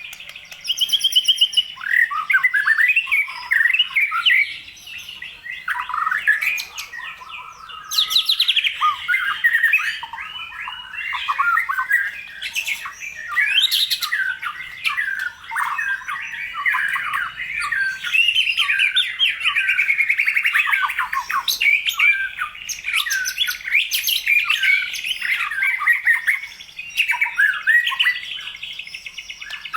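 White-rumped shama singing vigorously: a continuous run of fast, varied phrases of sweeping whistles, rapid trills and harsh notes, with only short breaks.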